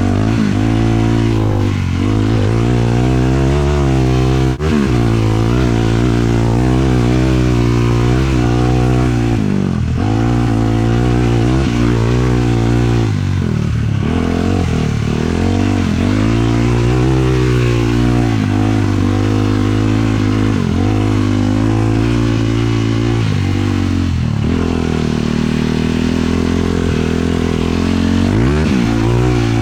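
450cc single-cylinder four-stroke sport quad engine running under load, its revs rising and falling again and again with the throttle. There is a brief break in the sound about four and a half seconds in.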